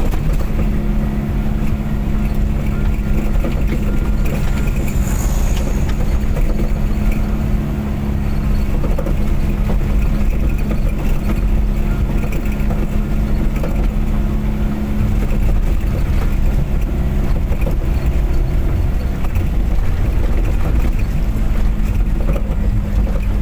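Motor vehicle driving at a steady speed: an even engine drone at constant pitch over heavy road rumble.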